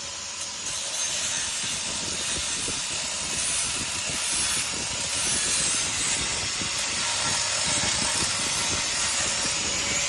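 Welding arc sizzling and crackling steadily as a patch piece is welded into a rusted motorcycle mudguard.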